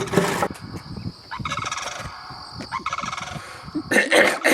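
A flock of cranes calling: repeated pulsing, rattling calls in two bouts, with a louder burst of sound near the end.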